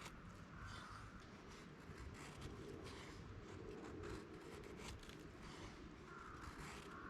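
Faint scattered clicks and rustles of light handling, with a faint bird call near the start and again near the end.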